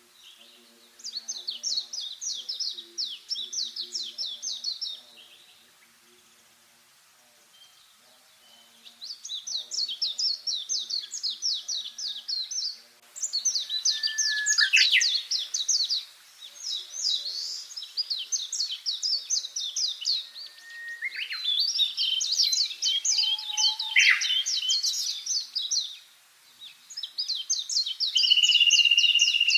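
Songbird singing long phrases of rapid, high chattering notes, each lasting a few seconds, with short pauses between, about six phrases in all. A few sliding notes fall in among them.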